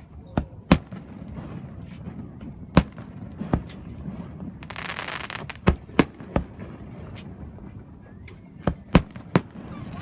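Aerial fireworks shells bursting: about ten sharp bangs at uneven intervals, several coming in quick pairs and triples, with a hissing rush for about a second midway.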